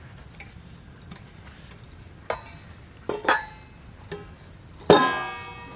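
A few plucked guitar-like notes, sparse and ringing out, the last and loudest one near the end with a long fade: a short stretch of background music.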